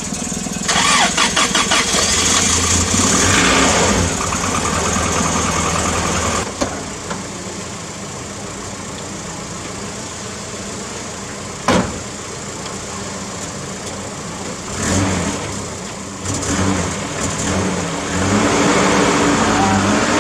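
Toyota 4Y four-cylinder petrol engine in a Hilux, jump-started because its own battery is flat, cranking briefly and catching about two seconds in. It runs up loudly, settles to a steadier idle with one sharp knock partway through, then is revved a few times near the end.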